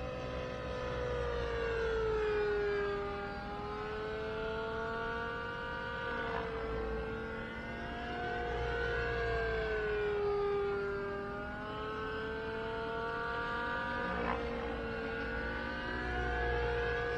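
Nitro RC helicopter's O.S. 91 glow engine and rotor running in flight, with the governor holding about 1800 rpm head speed. The engine note holds one pitch that sags slightly and recovers several times as the manoeuvres load it.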